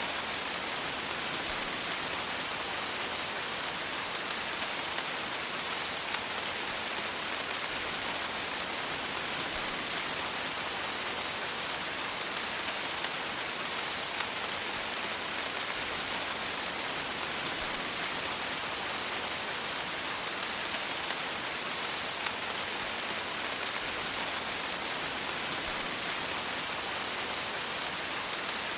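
Steady rain falling: a dense, even hiss of raindrops with many small, scattered drop ticks, unchanging throughout.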